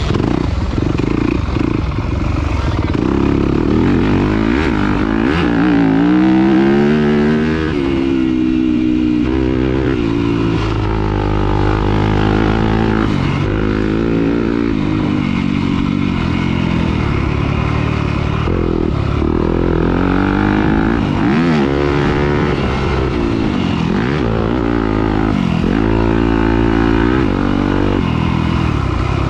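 Off-road motorcycle engine under racing load, revving up and dropping back again and again as the rider works the throttle.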